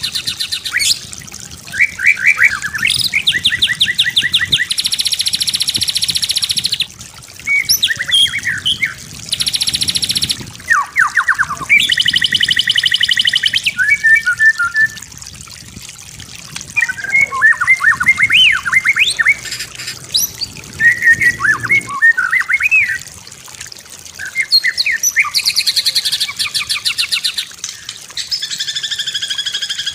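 White-rumped shama (murai batu) in full, varied song. Loud phrases alternate between rapid buzzy rattling trills of a second or two and quick clear whistles and chirps, with short pauses between phrases.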